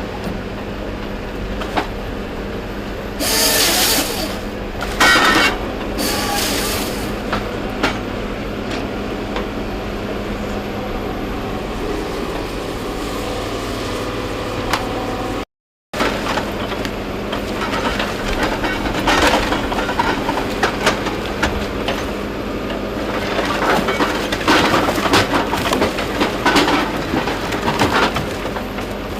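Heavy diesel logging machine running steadily, with a few short hissing bursts early on. In the second half come many clattering knocks, typical of logs being handled.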